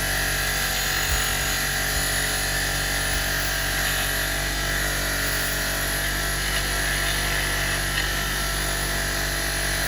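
Powered wire brush running steadily, a small electric motor with a constant whine, used to clean rust and grime off old box spanners; a few light knocks come through it.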